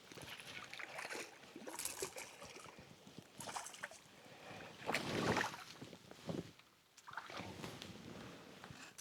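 Water sloshing and trickling around a fishing kayak in irregular bursts, loudest about five seconds in.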